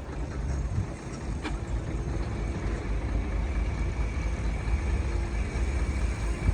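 Diesel engine of a Shantui DH17C2 bulldozer running steadily with a low rumble.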